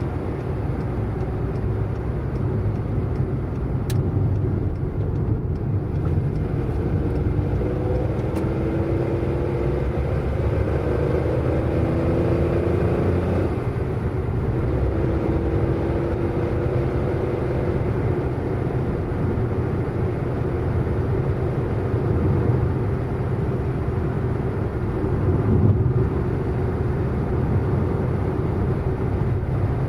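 Car driving, a steady low road and engine rumble. The engine's pitch climbs from about eight seconds in, falls back suddenly about halfway through, then climbs again.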